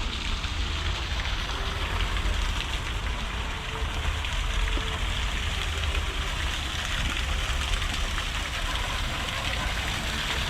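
Garden waterfall splashing steadily, with wind buffeting the microphone as a low rumble.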